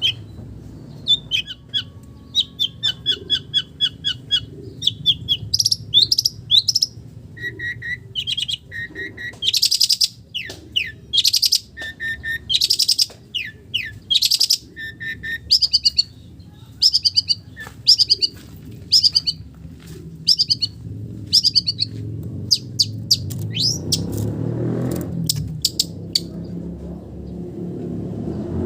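Long-tailed shrike (cendet) singing a fast, varied song of sharp chirps, a rapid trill and harsh buzzy notes, filled with imitations of other small village birds. A low background rumble grows louder about two thirds of the way through.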